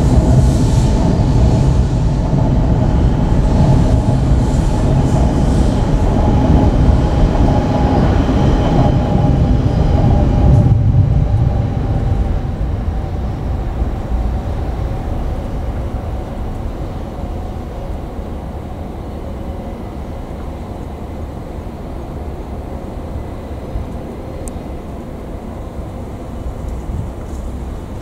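A short train of old JNR cars led by the KuMoYuNi 143 railcar moving slowly through the depot yard: a steady running rumble with a hum. It is loudest for the first ten seconds or so, then fades as the train draws away.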